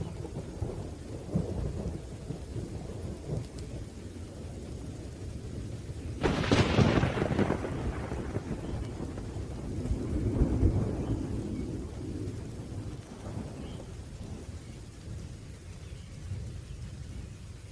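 Thunderstorm: steady rain with rolling thunder, a sharp thunderclap breaking about six seconds in, and another rumble swelling a few seconds later before dying back.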